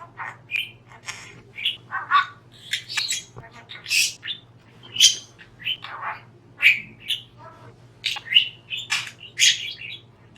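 Pet budgerigar chattering, a quick irregular run of short high chirps, warbles and squawks.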